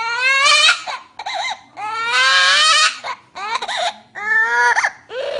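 A bird imitating a crying baby: about five wailing, baby-like cries in a row with short breaks between them, several rising in pitch, the longest about two seconds in.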